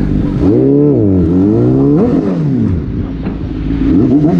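Sport motorcycle engine heard from the rider's seat, its revs rising and dropping twice in quick succession through the gears, then holding steady and climbing again near the end.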